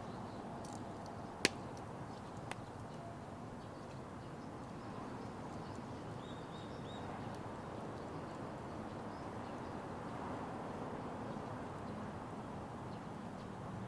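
Wood fire burning in a Petromax Atago stove, a low steady hiss with a sharp crackle about a second and a half in and a smaller one a second later.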